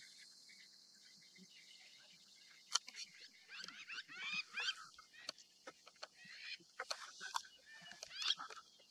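Birds calling in a quick chattering run of sharp, downward-sweeping notes, starting about a third of the way in, over a faint steady high insect hiss.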